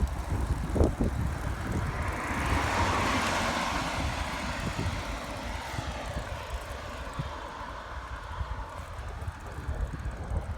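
Low wind rumble on the microphone, with a rushing noise that swells about two seconds in and slowly fades over several seconds, like a passing vehicle.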